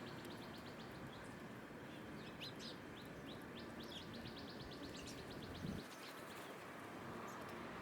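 Small songbirds chirping, with two rapid trills of short high notes, one at the start and one about four to five seconds in, over a steady outdoor background hiss. A soft thump about five and a half seconds in.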